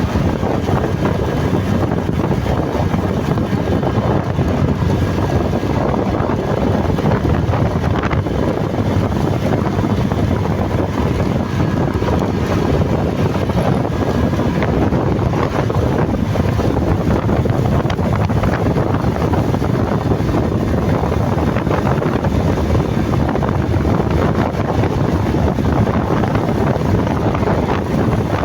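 Steady wind rushing over the microphone of a moving motorcycle, mixed with engine and road noise.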